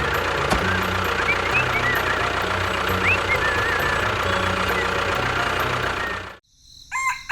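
A motor runs steadily with a few bird chirps over it, then cuts off abruptly about six seconds in. A rooster starts crowing near the end.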